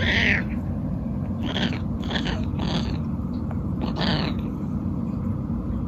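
A domestic cat making short, high squeaky calls, about five in the space of four seconds, over a steady low rumble.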